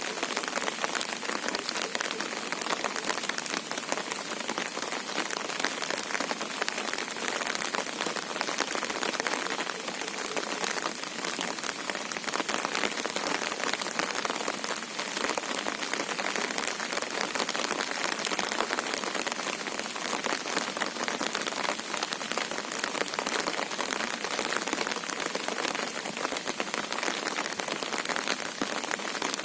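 Monsoon rain falling steadily, a dense, even hiss of drops that never lets up.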